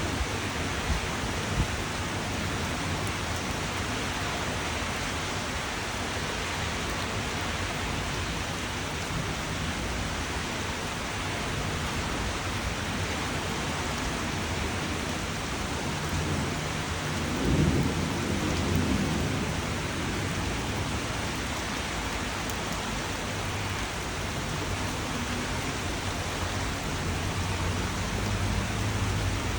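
Steady rainfall with rolling thunder: a low rumble swells about two-thirds of the way through, and another begins building near the end.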